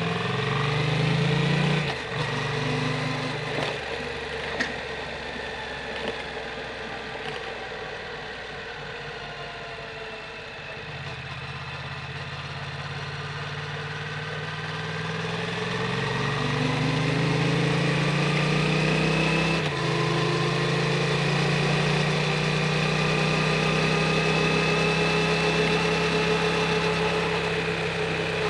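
Yamaha MT-07's 689 cc parallel-twin engine through an Akrapovic titanium full exhaust on the move, revs rising and falling in the first few seconds, then lower and quieter for several seconds. Near the middle the revs climb again, and from about two-thirds of the way in they hold steady at a cruise.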